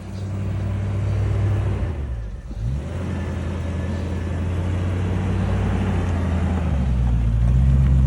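An off-road vehicle's engine running and getting gradually louder. About two and a half seconds in its note dips and climbs back up, and near the end it steps up in pitch as the revs rise.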